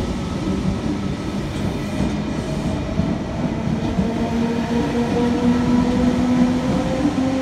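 NSW TrainLink V-set double-deck electric intercity train running past at close range, its wheels and running gear rumbling steadily. A motor hum rises slowly in pitch as it moves on.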